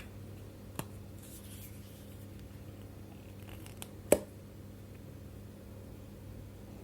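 Quiet close-up ASMR handling sounds: a brief soft rustle of hands on skin or fabric, and a few sharp clicks or taps, the loudest about four seconds in, over a steady low electrical hum.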